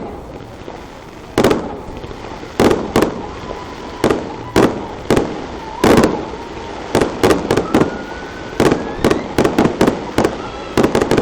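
Fireworks bursting overhead in an irregular series of loud bangs, coming faster in the second half, with a faint rising whistle about eight seconds in.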